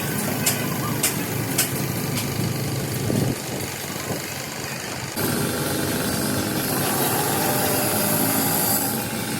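Engine running steadily, with several sharp clicks in the first two seconds; the sound changes abruptly about five seconds in, with a brighter, hissier running sound after.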